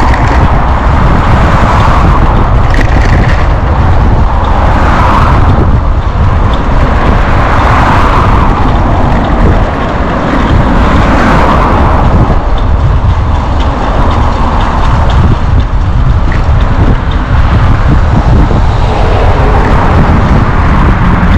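Loud, steady wind rumble on the microphone of a moving bicycle, mixed with road noise, with a hiss that swells and fades every two to three seconds.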